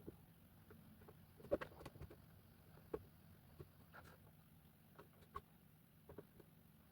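Near silence with a few faint, scattered clicks and taps of small plastic parts being handled, the loudest about one and a half seconds in.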